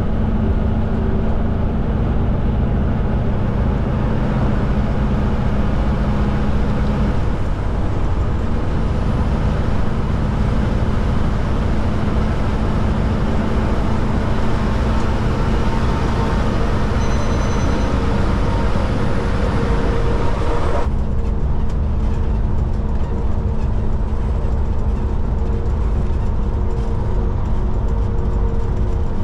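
Kenworth K200 cabover truck's Cummins diesel engine running on the road, a steady drone of engine and road noise heard from inside the cab. About 21 seconds in, the sound abruptly turns duller.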